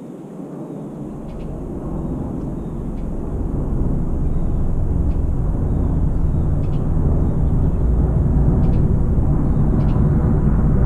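A low engine rumble that grows louder over the first four seconds, then holds steady.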